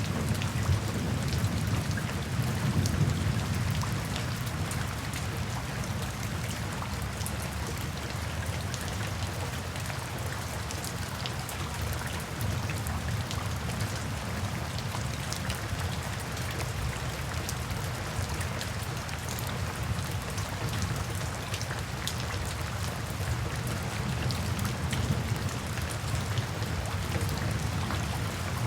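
Steady rain, with the dense patter of drops hitting a surface and a low rumble underneath that is strongest in the first few seconds.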